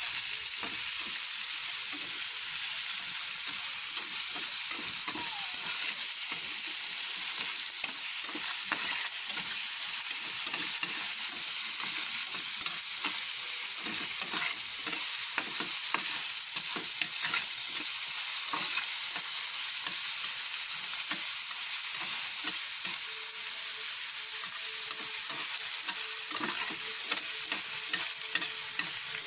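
Ground pork and red bell pepper sizzling steadily in hot oil in a frying pan, with frequent scrapes and knocks of a slotted spatula stirring the meat against the pan.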